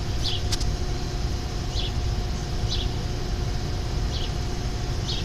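Steady low rumble of an idling engine with a faint steady hum, and a few faint short high squeaks spaced a second or so apart.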